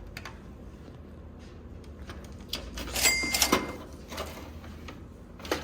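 Handling noises: scattered light clicks and knocks, with a busier cluster about three seconds in that includes a brief ringing ding.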